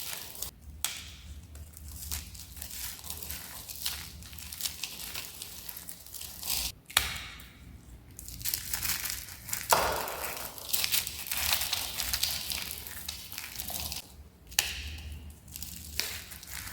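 Dry, crispy soap being crushed and crumbled: a dense, irregular stream of crisp crunches and crackles, with a few sharper snaps along the way.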